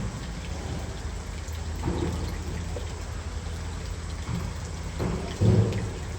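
Steady patter and rush of falling water, with a few short low-pitched sounds over it, the loudest near the end.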